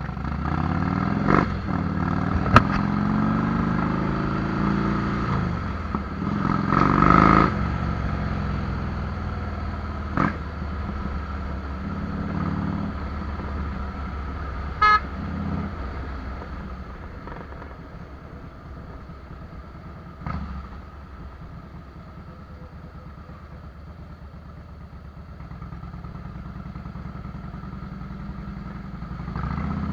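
Harley-Davidson Fat Boy's V-twin with Vance & Hines fishtail exhaust running on the move, rising in pitch as it accelerates through the first several seconds, then settling to a steadier, quieter cruise. A short horn toot comes about halfway through.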